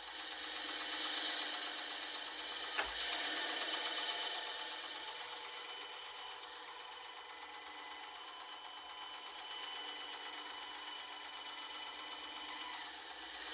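Bandsaw running and cutting wood, a steady whirring hiss with a single short tick about three seconds in.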